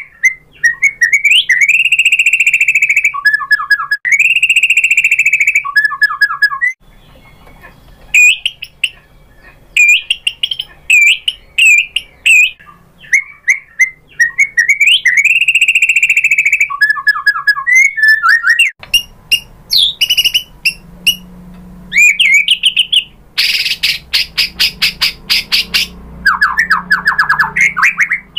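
White-rumped shama (murai batu) singing a loud, varied song: long sweet held whistles alternating with quick chattering notes. About two-thirds through comes a harsh, rapid rattle, then a fast trill.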